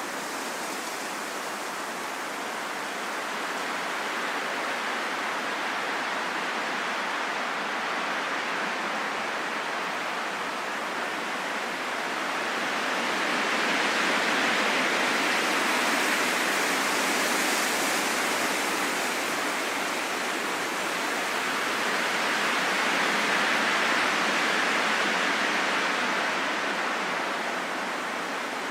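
Wind blowing as a steady rushing, with no whistle in it. It swells into gusts about halfway through and again later, then eases off.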